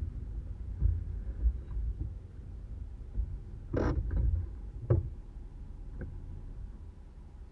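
Low, steady rumble of an off-road 4x4 vehicle crawling along, with a few sharp knocks near the middle.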